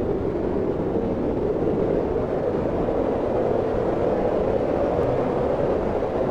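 Wind blowing steadily, a deep even rushing whose pitch drifts slowly up and down.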